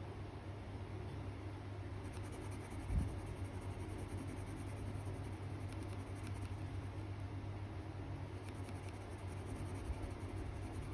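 Drawing strokes scratching on paper, many quick strokes from about two seconds in, over a steady low hum. There is a single soft bump about three seconds in.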